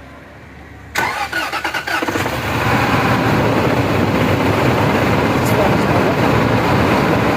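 Range Rover engine cranked by the starter for about a second, catching about two seconds in, then running steadily. It runs with one ignition coil unplugged, a manual test to find which cylinder is misfiring.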